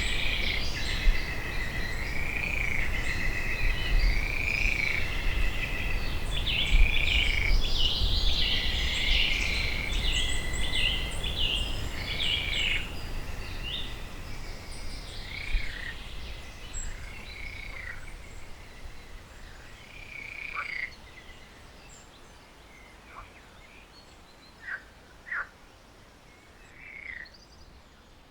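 Pond ambience of many overlapping short chirping calls. They are dense for about the first half, then thin out to a few scattered calls as the sound fades down.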